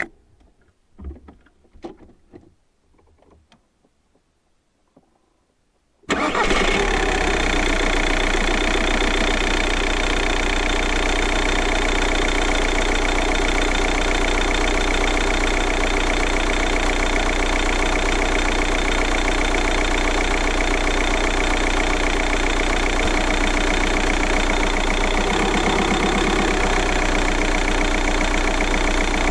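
A few faint clicks and knocks, then about six seconds in the VW Golf Mk4's 1.9 TDI four-cylinder diesel starts suddenly and settles straight into a steady idle.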